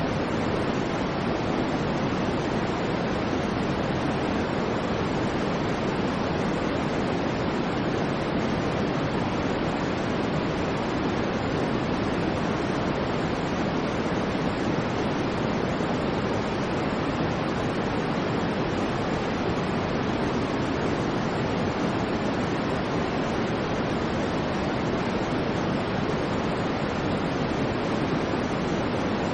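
Steady, unchanging white noise for sleep: an even rushing hiss, fuller in the low-middle range than in the highs, with no swells or breaks.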